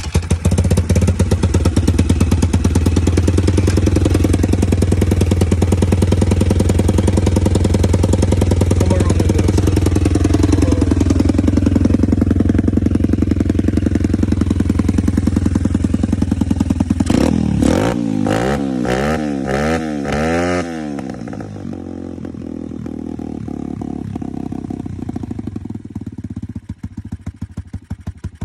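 150cc Chinese dirt bike's single-cylinder four-stroke engine, with a newly fitted Nibbi carburettor and the choke up, running steadily just after starting. About two-thirds of the way through, the throttle is blipped four or five times in quick succession, and then the engine drops to a lower, quieter idle.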